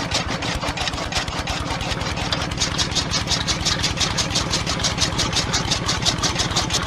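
Small motor of a home-made model tractor running steadily, a rapid even chugging of about a dozen beats a second.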